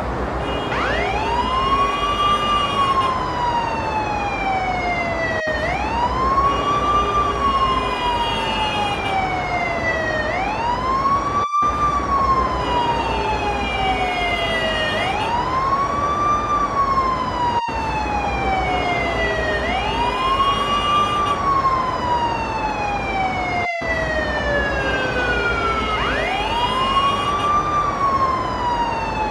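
Ambulance siren wailing: each cycle rises quickly and then falls slowly, about every five seconds. Under it runs a steady low rumble, with brief cut-outs about every six seconds.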